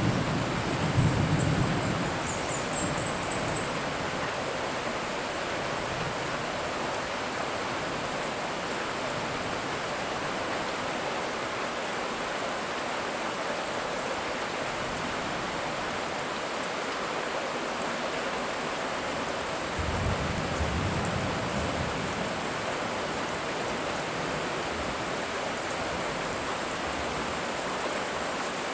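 Steady rain falling on tropical rainforest, with a thunder rumble dying away at the start and another low thunder rumble about two-thirds of the way through. A short high insect trill rises briefly near the start over a faint steady high insect buzz.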